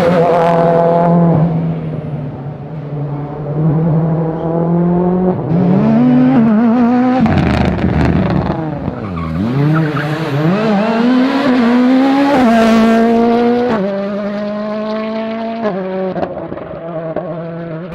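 World Rally Car's turbocharged four-cylinder engine at race pace, revving hard. The pitch falls deeply and climbs again partway through, as the car slows and accelerates, and drops sharply twice near the end at gear changes.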